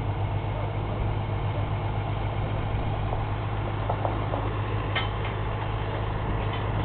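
Tractor engine idling steadily with a low hum, with a few faint clicks about five seconds in.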